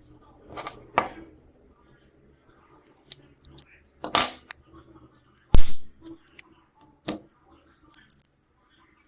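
Scattered clicks and taps of small tools and phone parts being handled on a work surface, with one heavier knock about halfway through.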